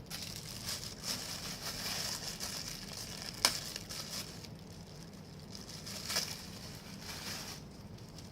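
Tissue paper being pulled out and handled, crinkling and rustling, with a sharp tap about three and a half seconds in and a lighter one around six seconds.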